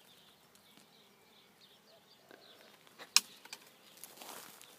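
A thrown rock landing with one sharp knock about three seconds in, close to but not squarely on a beehive, against quiet outdoor background with faint high chirps.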